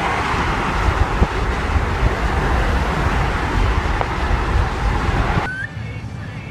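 Loud steady rumble and hiss, like vehicle and wind noise, that cuts off abruptly about five and a half seconds in, leaving a quieter background.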